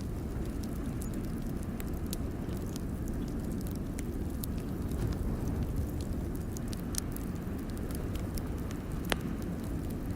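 Wood fire crackling in a fireplace: scattered sharp pops and snaps, with one louder pop about nine seconds in, over a steady low rumble.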